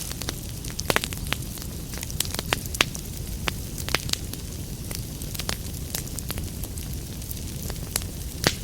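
Wood fire burning in a fireplace with a steady low rumble and frequent sharp, irregular crackles and pops.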